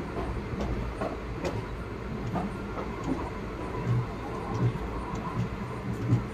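Passenger express train pulling out slowly, heard from an open coach doorway: a low rumble of the coach's wheels on the rails, with a thud or clack every half second to a second.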